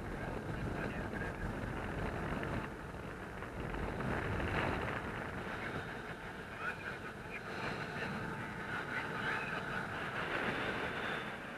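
Wind rushing over the microphone in flight on a paraglider, a steady noisy rush with a faint higher whine in the second half.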